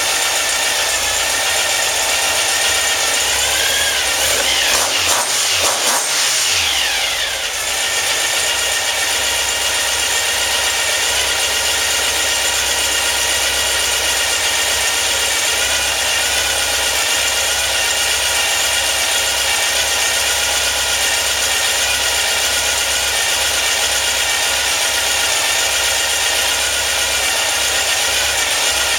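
2332cc air-cooled VW flat-four with dual Weber 48IDF carburetors running at a steady idle. About four seconds in the revs rise once, then drop back to idle within a few seconds.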